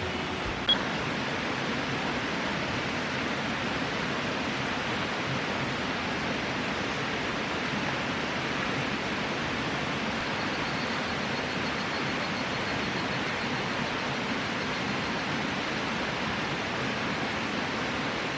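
A steady, even rushing noise of the outdoors at night, with one short click about a second in and a faint thin high tone joining about halfway.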